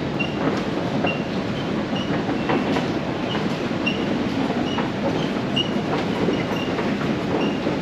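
London Underground train running through a tunnel: a steady rumble of wheels on rail, with short high squeaks about twice a second and scattered clicks.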